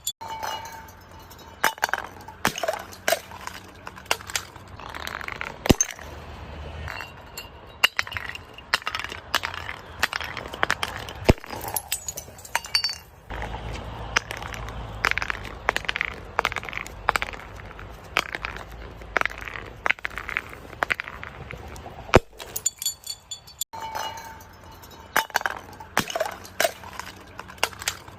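Glass being crushed and broken: an irregular run of sharp cracks, crunches and clinking shards, with a low rumble underneath through the middle stretch.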